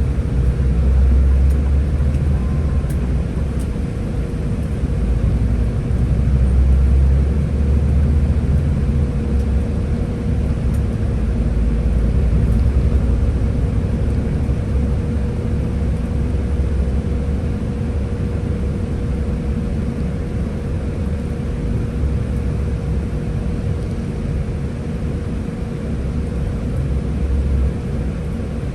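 Scania Higer A30 city bus running along, its engine and driveline giving a steady low rumble that swells and eases a few times, with a steady whine alongside.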